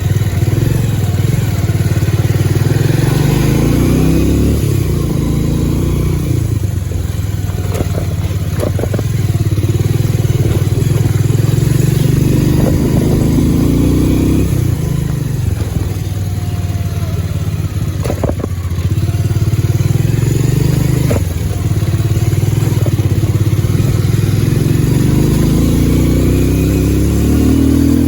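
Bajaj Pulsar 150 motorcycle's single-cylinder engine running while the bike is ridden, the revs climbing and dropping several times, with a few sharp knocks along the way.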